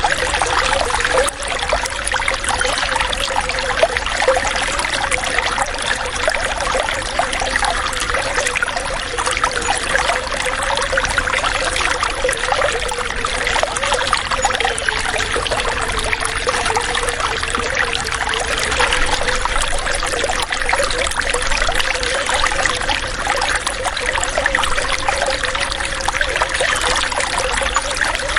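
Running water flowing steadily with a continuous trickling, splashing rush that does not change.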